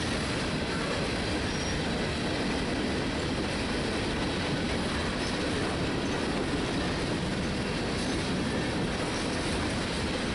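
Freight train of hopper cars rolling past: a steady, unbroken noise of steel wheels running on the rails, with faint high wheel squeal.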